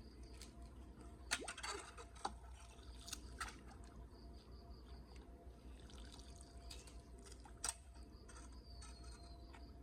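Faint water dripping and trickling, with a few sharp drips or clicks, the loudest about a second in.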